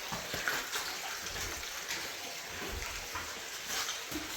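Steady rush of running water, with scattered small knocks and scuffs over it.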